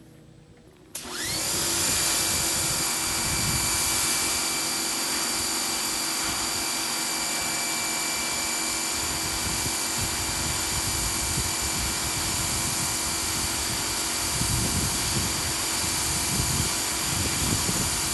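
Pressure washer spraying a steady hissing water jet through its 15-degree nozzle. The spray starts suddenly about a second in, with a steady high whine over the hiss.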